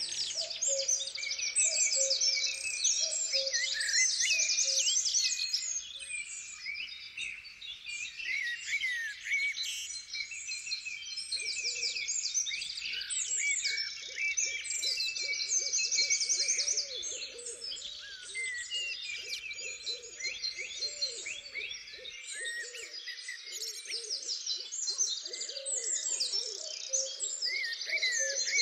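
Dense chorus of songbirds chirping and trilling, over a low, repeated hooting in the first few seconds that returns from about twelve seconds in.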